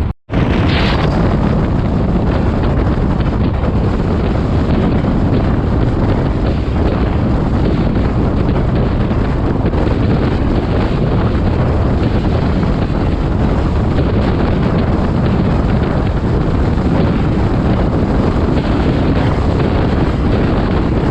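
Steady rush of wind buffeting the microphone over the running noise of a Class S13 diesel multiple unit on the move. The sound cuts out for an instant just after the start.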